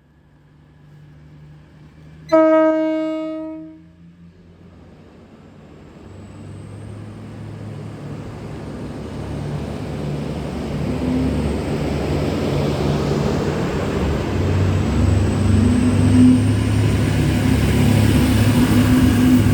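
V/Line VLocity diesel railcar set sounding its horn once, a short blast about two seconds in, then the train's diesel engine hum and rail noise building steadily louder.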